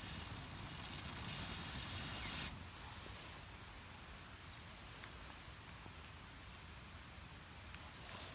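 A steady hiss for the first two and a half seconds that cuts off suddenly, then a small wood fire of split firewood and feather sticks crackling, with a few sharp pops.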